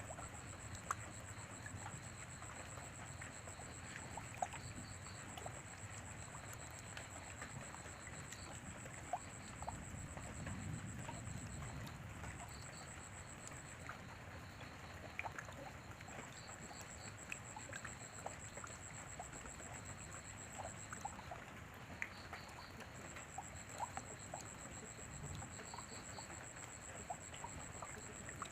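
Rain falling steadily, with many separate drops ticking on surfaces and a trickle of water. A thin high-pitched steady tone runs over it, dropping out briefly a few times.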